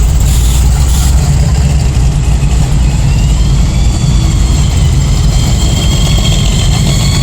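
Car engines running steadily in a slow parade, a loud, even low rumble, with a faint high whine coming in a few seconds in.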